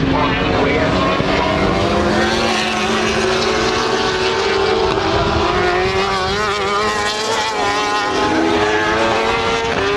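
Race motorcycles' engines at high revs, several at once, their pitch rising and falling as they pass and change gear.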